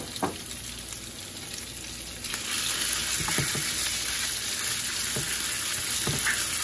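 Shredded chicken frying in hot oil in a frying pan, sizzling steadily while stirred with a wooden spoon; the sizzle grows louder about two seconds in, with a few knocks of the spoon against the pan.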